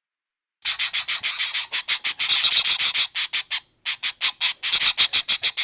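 An animal's rapid rasping chatter: short scratchy pulses, about eight to ten a second, starting just under a second in, with a brief break a little past halfway.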